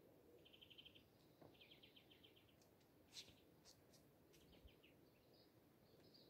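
Faint birdsong outdoors: short rapid high trills repeated a few times, with a few sharp chirps in the middle, over a very quiet background.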